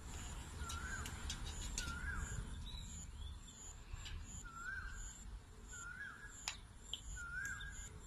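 Quiet bird chirps: a short rising-then-falling note repeated about six times, roughly a second apart with a pause in the middle. Under them run a faint high pulsing tone, a low rumble and a few light clicks.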